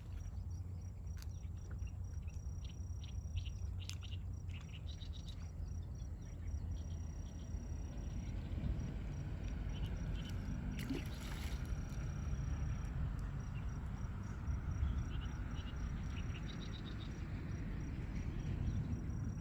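Birds chirping in short, scattered calls over a steady high-pitched insect trill that breaks off now and then, with a constant low rumble underneath.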